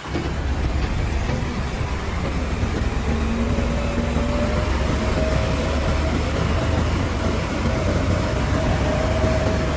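Heavy diesel machine engine running steadily under load, a loud low rumble that comes up sharply at the start, with a faint steady whine over it.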